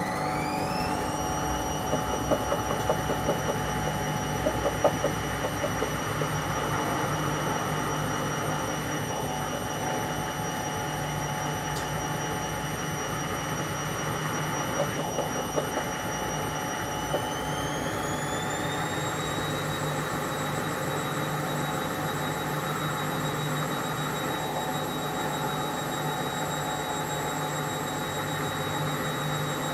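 Whirlpool washing machine running its cold wash cycle, its motor whine rising in pitch in steps as the drum speeds up, typical of the spin stage. Brief light rattles come a few seconds in and again about halfway.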